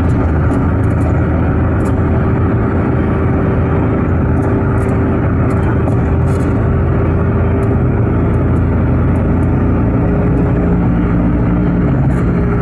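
Car driving steadily: continuous engine and road noise with a low rumble and a steady hum, no change in pace.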